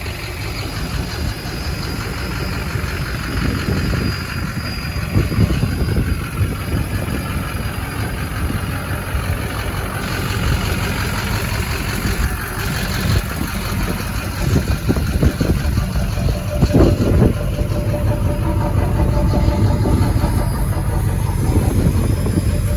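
Truck engine idling steadily, with a few short knocks.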